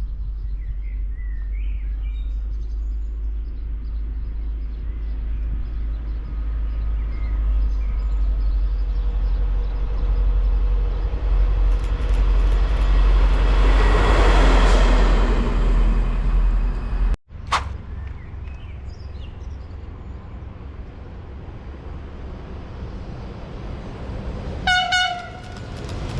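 A train passing, its rumble building to its loudest about halfway through, then breaking off suddenly. Another train's rumble follows, and its horn sounds one short blast near the end.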